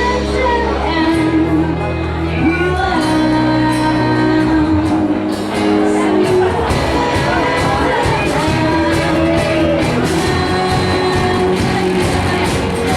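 Live indie rock band playing with a female lead vocal: sung melody over electric guitars, bass, drums and keyboard.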